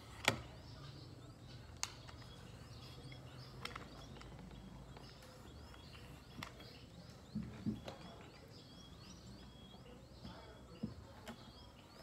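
Small birds chirping over and over in the background, faint short rising chirps. A few soft knocks and rustles come from the comb and hands working through a long-haired cat's fur.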